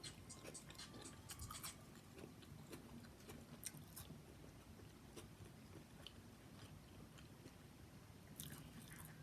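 Faint chewing, with scattered soft mouth clicks, from a person eating a sandwich.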